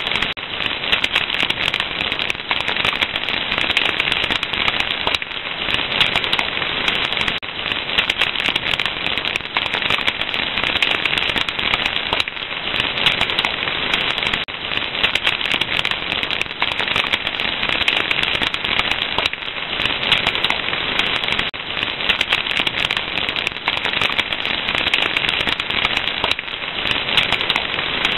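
Fire crackling: a dense, continuous run of small pops and snaps over a steady hiss.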